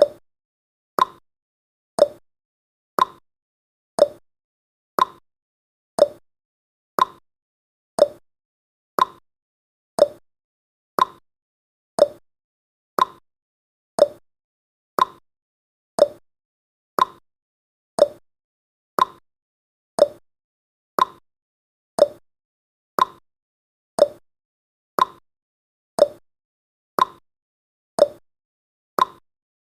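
Clock tick-tock sound effect of a countdown timer: one short tick every second, alternating between a higher and a lower pitch.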